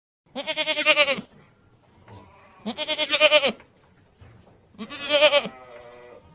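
Goat bleating three times, each a wavering call of about a second.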